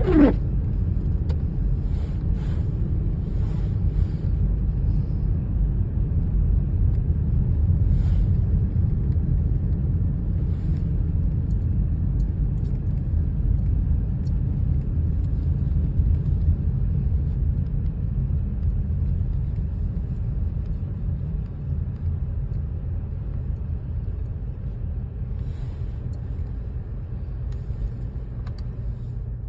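Wind buffeting the microphone in a snowstorm: a steady low rumble that eases off over the last several seconds, with a brief falling squeak right at the start.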